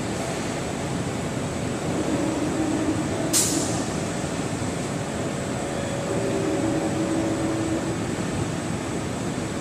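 Large-format automatic screen washout booth running, giving a steady machine noise with a constant hum. About three seconds in there is one short, sharp hiss of air that fades away quickly.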